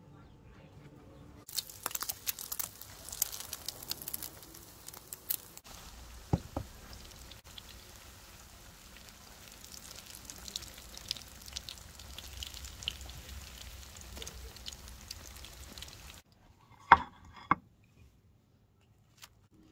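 Batter-coated courgette slices frying in shallow oil in a pan: a steady sizzle thick with crackling pops, which stops about three-quarters of the way through. A couple of sharp clicks follow.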